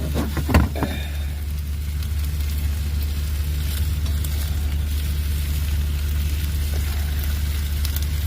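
Pork chops and vegetables sizzling in a pan over a steady low engine-like hum, with a brief clatter about half a second in.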